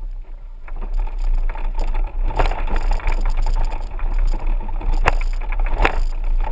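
4x4 vehicle driving on a rough dirt road: a steady low rumble with a few sharp knocks and rattles, the loudest about halfway through and near the end.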